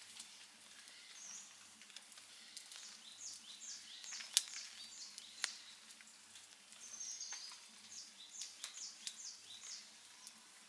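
Campfire crackling, with scattered sharp pops, the loudest about four seconds in and again a second later. Repeated high chirps sound throughout in the background.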